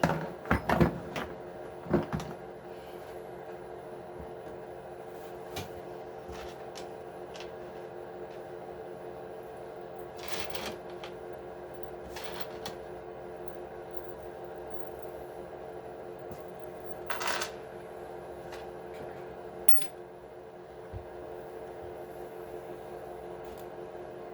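Clicks and clatter of small plastic and metal RC truck parts and tools being handled during disassembly, loudest in a cluster in the first two seconds, then a few scattered knocks, over a steady hum.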